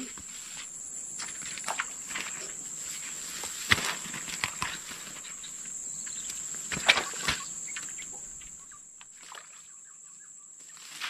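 A steady high-pitched insect drone over marsh ambience, with rustling and a few sharp knocks, about a third and two thirds of the way in, of someone moving through tall grass.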